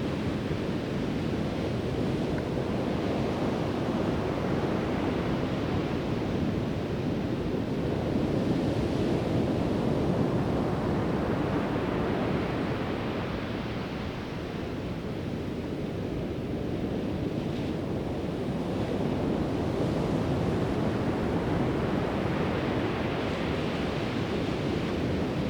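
Pacific Ocean surf breaking and washing on a sandy beach, a continuous wash that swells and eases every several seconds, with wind buffeting the microphone.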